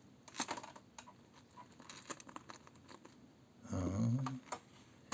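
Scattered light clicks and rustles of small objects being handled, with a short murmured voice sound about four seconds in.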